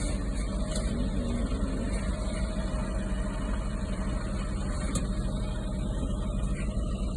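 Heavy truck's diesel engine running steadily at a low, even speed.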